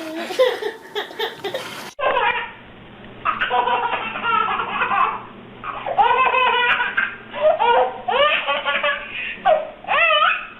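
A young child laughing hard in repeated bursts with short pauses between them, the audio changing abruptly about two seconds in as a new clip starts.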